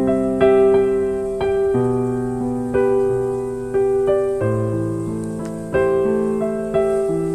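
Slow, gentle piano music, with notes and chords struck about once a second, each ringing and fading before the next.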